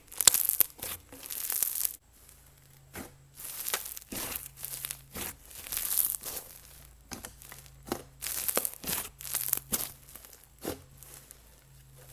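Butter slime being squeezed and pressed by hand, giving irregular sizzling, crackling bursts.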